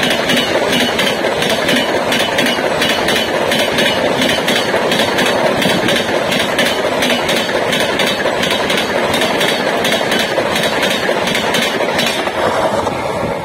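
Passenger coaches of an express train running past at speed close by: a steady loud rush with a quick, even clatter of wheels over rail joints, dropping away near the end as the last coach goes by.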